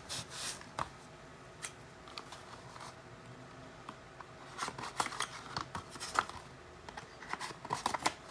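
Football trading card packaging being opened and handled: short crinkles, snips and clicks in bursts, busiest around the middle and again near the end.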